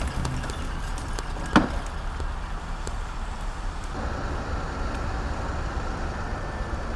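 Heavy diesel recovery-truck engines running steadily during a tow, with one sharp loud metallic knock about one and a half seconds in.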